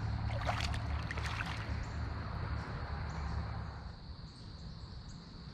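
Water moving against a small fishing boat on a river, with a low steady hum underneath that drops away about four seconds in, and a few small knocks or splashes in the first second or so.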